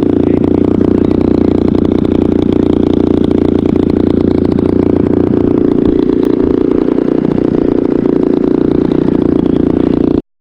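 RC model aircraft motor running at full power with a steady, pulsing engine-like tone that shifts slightly about halfway through, then cuts off suddenly just before the end.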